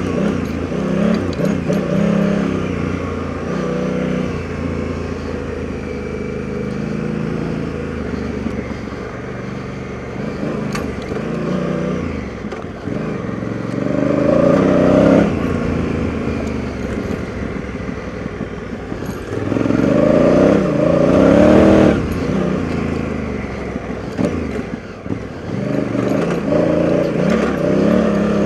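Honda Africa Twin's twin-cylinder engine pulling the bike along a dirt trail, its revs rising and falling with the throttle. It climbs and is loudest about halfway through and again for a couple of seconds around three-quarters of the way, dips briefly after that, then builds again near the end.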